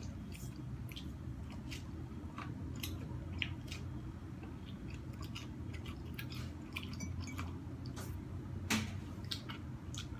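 Biting and chewing corn on the cob, close to the mouth: a run of irregular small wet clicks and snaps as kernels pop off the cob, with one sharper snap a little before the end. A low steady hum runs underneath.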